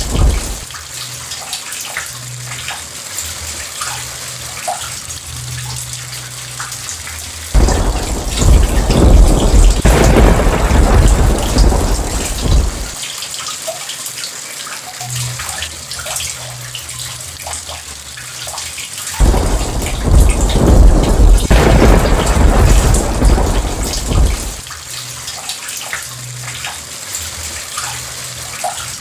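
Steady heavy rain, with drops pattering, and two long rolls of thunder that each break in suddenly and rumble for about five seconds, one about a quarter of the way through and one about two-thirds through. The end of an earlier thunder roll dies away right at the start.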